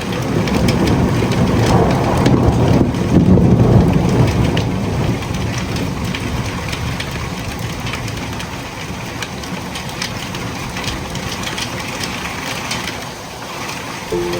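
Steady rain, an even hiss with fine pattering crackle. A low rumble swells and fades over the first five seconds, like a vehicle passing.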